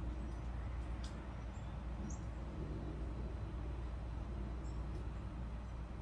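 Steady low background rumble with a few faint, short, high-pitched bird chirps scattered through it.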